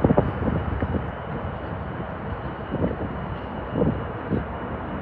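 Distant jet airliner noise, a steady rush and rumble, with a few brief knocks on the microphone.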